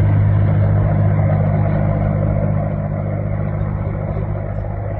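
Helicopter engine and rotor running, a steady low drone over a rushing noise that eases off slightly in the second half.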